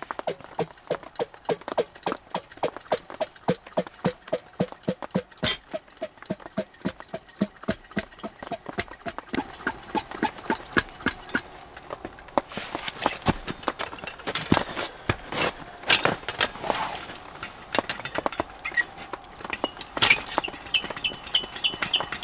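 Rapid series of knocks, several a second, with a short ringing note on many of them in the first half and a few short pauses later on.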